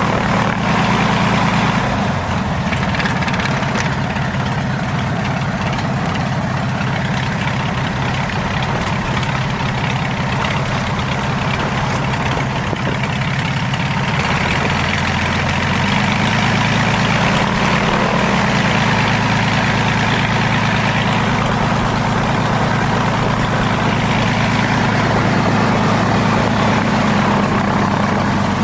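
Zlin Z-226MS's piston engine running steadily, its note shifting slightly about two seconds in and again around the middle.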